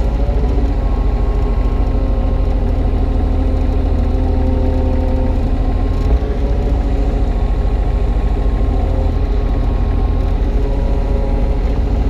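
Kubota U35-3 mini excavator's diesel engine running steadily, with hydraulic whining tones that come and go and shift in pitch as the arm and bucket work. There is a single short knock about six seconds in.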